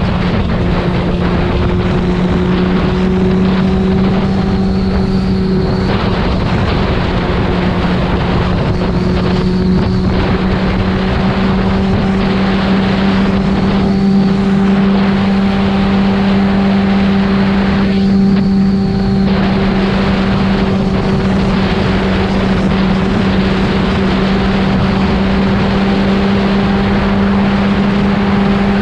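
Yamaha FZ6's inline-four engine breathing through a Leovince aftermarket exhaust, running at steady revs while riding, with wind rush over the microphone.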